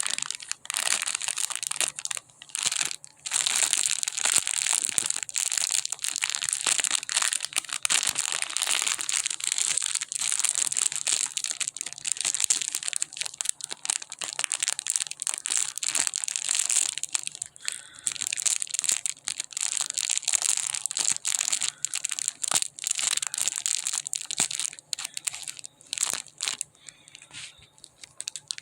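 Packaging being crinkled, crushed and torn by hand as a cat toy is worked open, a steady run of dense crackling with a couple of brief pauses in the first few seconds and thinning near the end.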